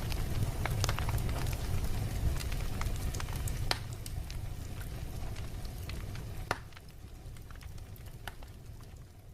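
Fireplace fire crackling, with scattered sharp pops over a low steady rumble of the flames; it fades down over the last few seconds.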